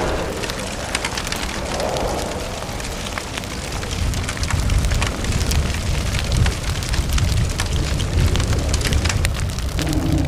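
Wildfire burning: dense, continuous crackling of burning vegetation over a low rumble.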